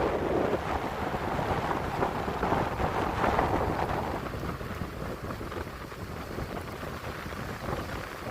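Wind gusting over the microphone with sea surf. It is strongest in the first four seconds, then eases.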